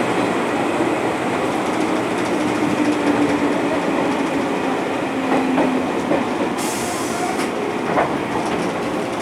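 JR 205 series electric multiple unit heard from on board, running on the rails with wheel clatter and a traction-motor hum that falls slowly in pitch as the train slows. A short burst of hiss comes about seven seconds in.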